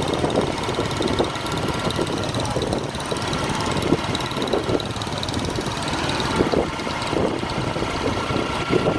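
A vehicle engine running steadily, with a constant faint high whine over the noise.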